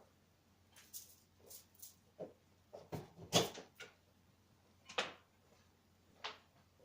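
Scattered handling noises: a series of short clicks, knocks and rustles as objects are picked up and moved, the loudest knock about three and a half seconds in and another about five seconds in.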